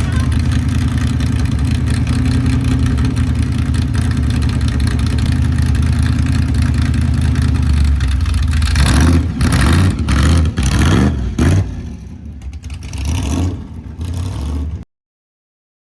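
A car engine running with a loud, deep rumble, revved up and down several times about nine seconds in, then settling lower before the sound cuts off abruptly.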